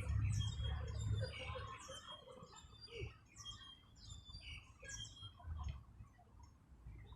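Birds chirping: short, high calls repeated several times a second. A low rumble sits under them, loudest in the first second or so.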